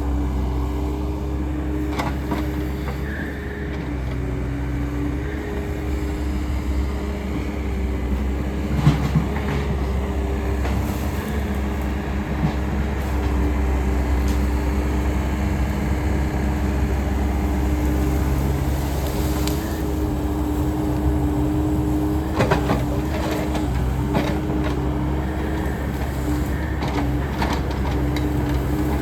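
Takeuchi machine's diesel engine running steadily, with a steady whine held over it. A few sharp cracks come about nine seconds in and again about twenty-two seconds in.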